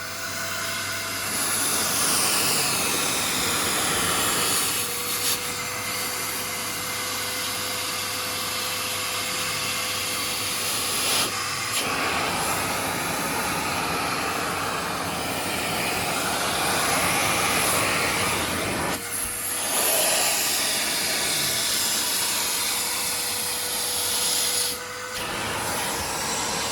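TACKLIFE 6-gallon stainless steel wet/dry shop vacuum running, a steady loud rush of air, broken by a few abrupt cuts between clips.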